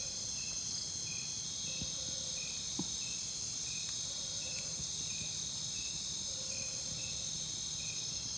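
Night chorus of crickets and other insects, several steady high trills running together, with a faint short chirp repeating a little under twice a second.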